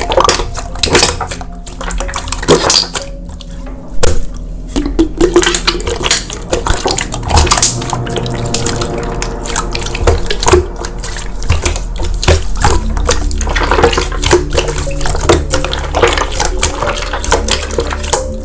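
Wet slime being squished and poked by hand, with many sticky clicks and pops, over soft background music.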